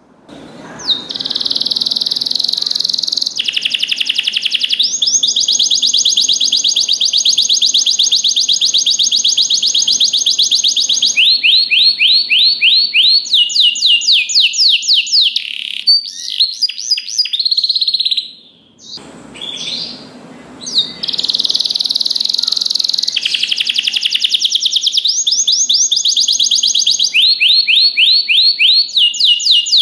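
Domestic canary singing, high-pitched, alternating long rapid rolling trills with series of separate repeated chirps. The song breaks off briefly about a second in and again around two-thirds through.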